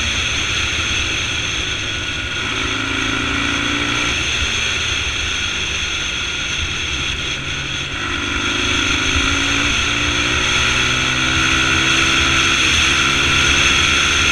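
Dirt bike engine running steadily under way, its note lifting slightly in the second half, over a steady low rumble.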